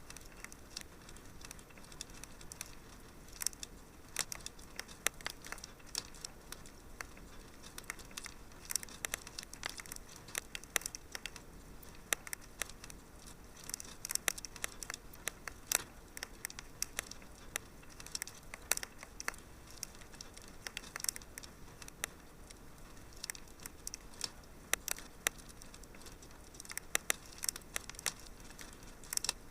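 Wood fire crackling in a fireplace: frequent irregular sharp pops and snaps over a soft steady hiss.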